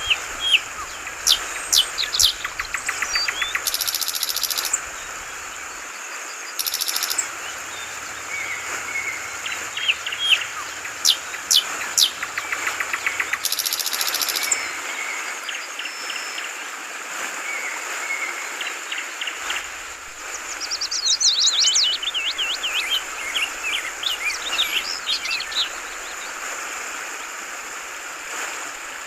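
Yellow-vented bulbul (trucukan) calling in quick, sharp chirps and short trills over the steady hiss of trickling water, with a few brief buzzy bursts. About two thirds through comes a fast tumbling run of notes.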